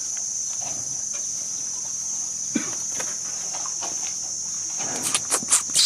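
Steady, high-pitched drone of insects such as crickets, with a few faint scattered sounds and a quick run of short, sharp high chirps near the end.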